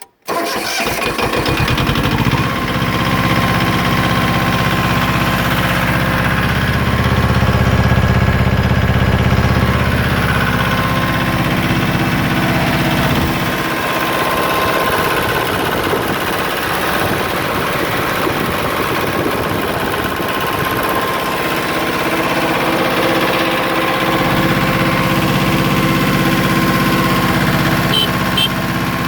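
Yanmar YM1500 compact tractor's 18-horsepower diesel engine starting almost at once and then running steadily. Its low rumble drops noticeably about 13 seconds in and comes back up about 24 seconds in.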